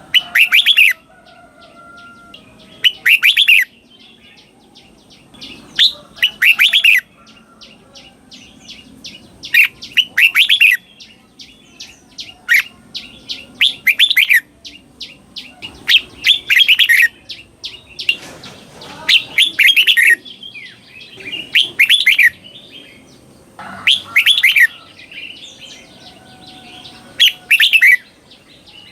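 Red-whiskered bulbul singing the short, warbling phrases of the doubled ("beul") song style kept by Thai bulbul fanciers, one phrase about every three seconds, with softer chirps between.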